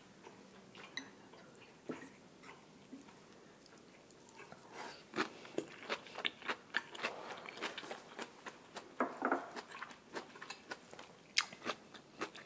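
Close-miked chewing of grilled beef: moist mouth clicks and smacks, sparse at first and coming thick and fast from about halfway.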